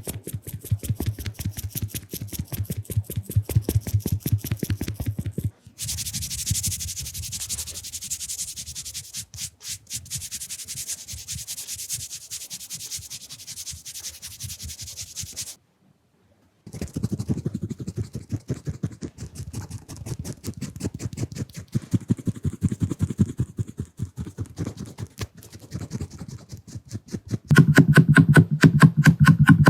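Fast, dense rubbing and brushing of makeup applicators against the microphone and lens, in short layered segments. Rapid low rubbing strokes give way to a brighter, hissy brushing stretch. After a brief silence the rubbing strokes return and grow louder near the end.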